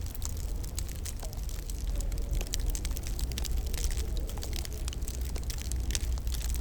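Wood fire crackling in a fireplace, with frequent small irregular pops and snaps over a steady low rumble.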